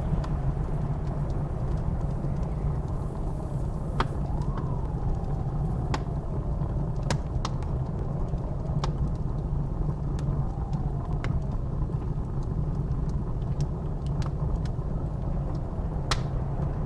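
Wood fire crackling with scattered sharp pops over a steady low rumble of blizzard wind. A faint whistle of wind rises and falls twice.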